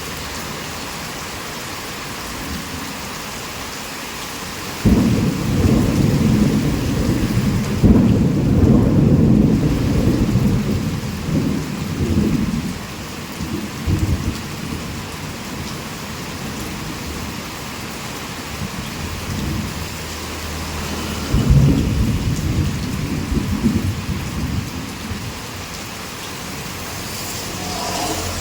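Heavy rain falling in a steady hiss. Thunder cracks in suddenly about five seconds in and rumbles on for several seconds, and a second, shorter thunderclap rumbles past a little after twenty seconds.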